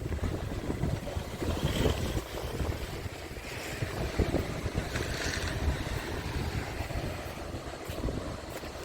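Scania G450 truck running: an uneven low rumble.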